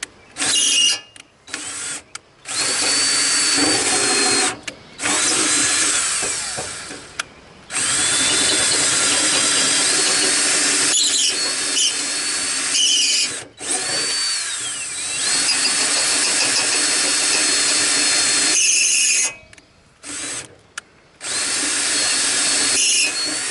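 Power drill with a slightly larger bit enlarging drilled-out tack-weld holes on a garden tractor hood's grill. It runs in bursts of a few seconds with short pauses between, its whine shifting up and down in pitch as the speed changes.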